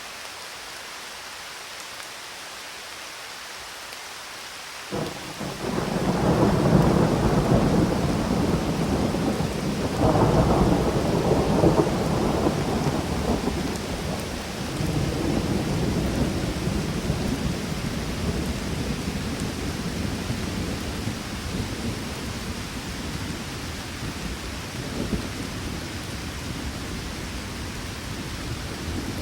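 Steady rain falling, then about five seconds in a peal of thunder breaks into a long low rumble that swells again a few seconds later and slowly rolls away under the rain.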